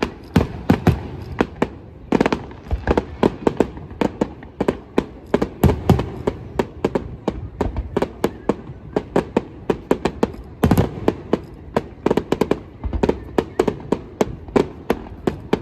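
Fireworks going off in rapid, irregular succession: sharp bangs and crackles, several a second, with louder clusters about two seconds in and again near ten seconds.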